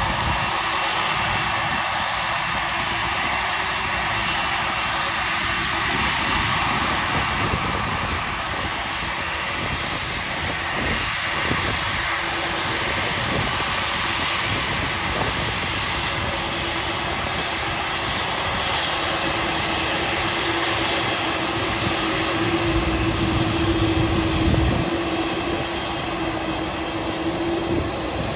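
Boeing 747 cargo jet's engines running steadily: a continuous rush with a high whine, and a lower hum that grows louder in the last third.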